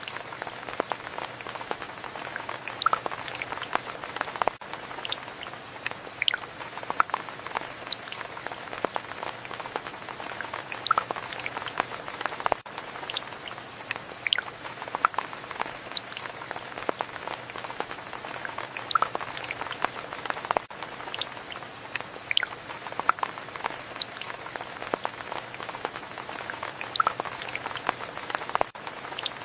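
Steady rain with many separate drops dripping and pattering close by, over a constant hiss, with a brief dip about every eight seconds where the recording loops.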